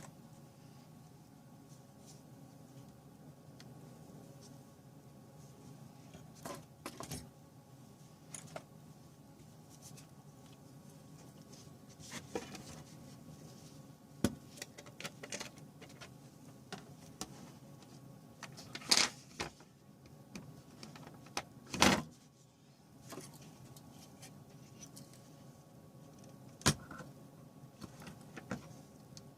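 Scattered clicks and knocks of small hard objects being handled, over a faint steady hum; the loudest knocks come about two-thirds of the way through and near the end.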